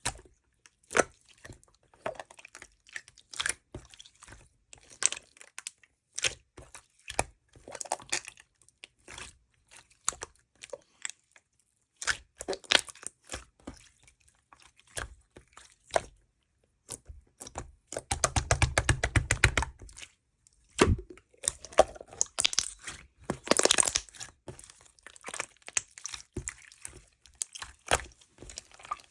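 Close-miked crunching and chewing with sharp crackly bites, like something hard and brittle being bitten and chewed. About two-thirds of the way through comes a dense, rapid run of crackles for a couple of seconds.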